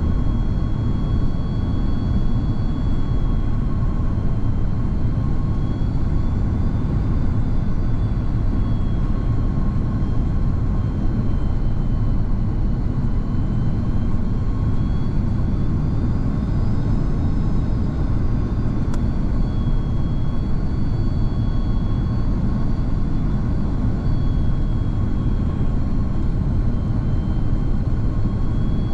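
Steady cabin noise inside an Airbus A330-200 in flight: an even, deep rumble of engines and airflow with faint high whining tones that drift slightly up and down in pitch.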